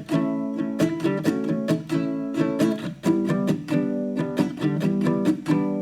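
Background music: strummed and plucked acoustic guitar or ukulele in a steady, upbeat rhythm.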